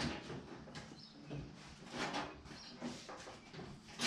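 Sheet-metal body panel being handled and pushed into place against a car body: irregular metal scrapes and knocks, a sharp knock at the start and a louder one at the end.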